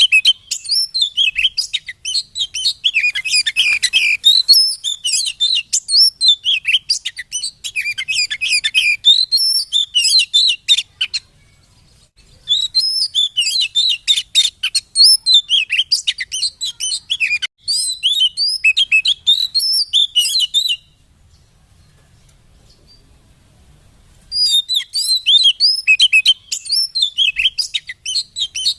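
Oriental magpie-robin (kacer) singing a rapid, varied song of high chirps and whistles, as used in a lure ('pancingan') recording to set caged birds singing. The song comes in three long bouts, broken by a short pause about eleven seconds in and a longer pause from about twenty-one to twenty-four seconds.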